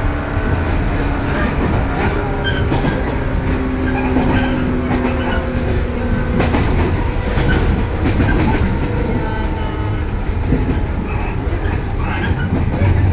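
Sanyo Line electric train running at speed, heard from inside the carriage: a steady heavy rumble with the wheels knocking over rail joints, and a faint steady hum that drops out about six seconds in.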